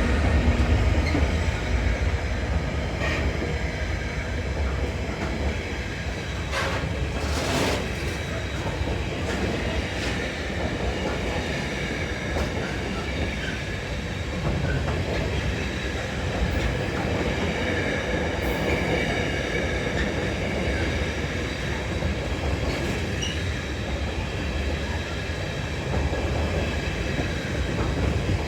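Diesel-hauled freight train rolling past, led by a Class 66 locomotive: steady rumble of wagon wheels on the rail, with a few sharp clicks over the rail joints and thin squealing from the wheels.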